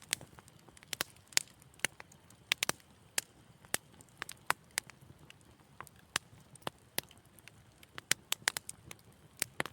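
Wood fire crackling in a fireplace: irregular sharp pops and snaps, sometimes several close together, over a faint low rumble of the flames.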